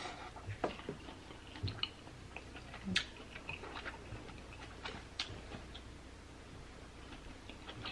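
A person chewing king crab meat: soft, irregular wet mouth clicks and smacks, the sharpest about three seconds in.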